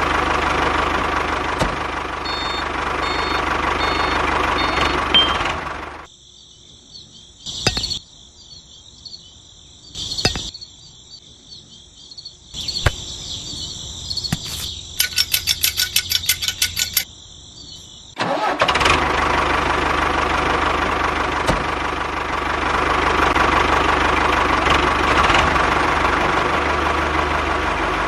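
A small engine running steadily, cutting out about six seconds in. A quieter spell with a couple of knocks and a fast clicking run follows, and the engine sound returns for the last ten seconds.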